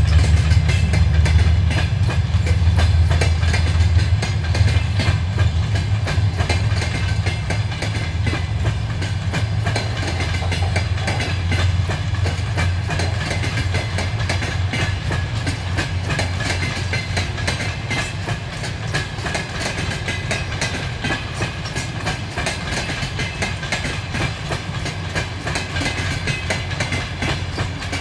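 Passenger coaches rolling past on a departing train, their wheels clicking over the rail joints in a steady clickety-clack. Under the clicking runs a low rumble that eases after about the first ten seconds.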